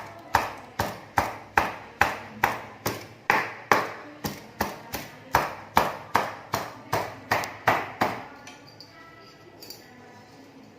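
A kitchen knife chopping on a cutting board in a steady rhythm, about two and a half strokes a second, stopping about eight seconds in.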